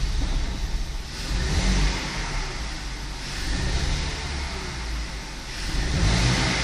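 BMW 520i E60's M54 2.2-litre straight-six engine revving up and dropping back, twice: about a second and a half in and again near the end. The owner suspects an intake air leak behind its hesitation between 600 and about 1000 rpm.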